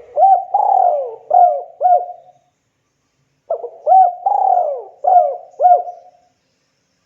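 Spotted dove cooing: two phrases of about five rising-and-falling coos each, with a pause of about a second between them.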